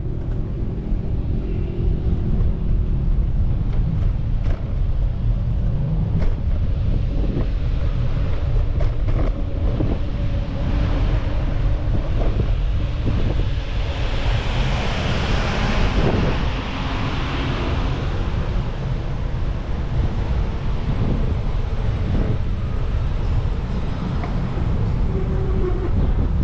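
Wind buffeting the microphone of a moving bicycle, a steady heavy rumble; a louder hiss swells up about halfway through and falls away a few seconds later.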